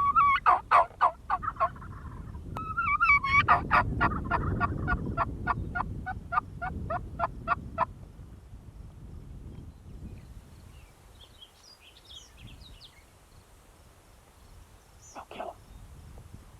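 Wild turkey calling: two runs of rapid, sharp notes, the second longer and slowing toward its end. Faint songbird chirps follow, with a short call near the end.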